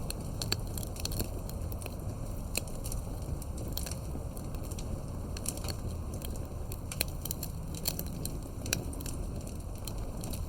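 Campfire burning, with frequent irregular sharp crackles and pops from the burning wood over a steady low rumble.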